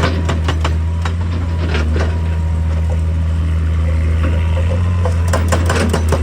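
Hitachi EX200 excavator's diesel engine running steadily under load, with scattered irregular knocks and crunches of rock as it digs.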